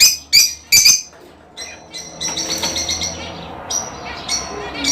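Budgerigars chirping: three sharp chirps in the first second, then a run of fast, rapidly repeated chattering notes.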